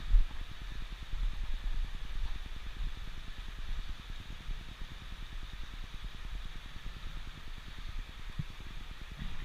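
Steady rushing hiss of flowing river water, with an uneven low rumble on the camera's microphone throughout.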